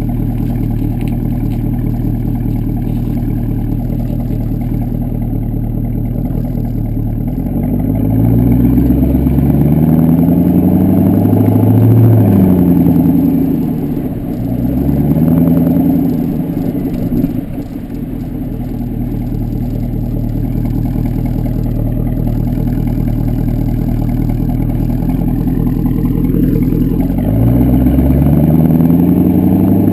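Exhaust of a 2009 Pontiac G8 GXP's 6.2-litre LS3 V8 through a Corsa aftermarket exhaust, driving. It runs steadily, climbs in pitch under acceleration from about eight seconds in with a couple of breaks as it shifts, settles back to a steady cruise, and rises again under acceleration near the end.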